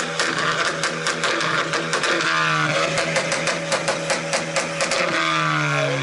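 Car engine held on a two-step launch limiter: a fast, even string of exhaust pops and bangs, several a second, over a steady engine note. The revs fall away about two seconds in and again near the end.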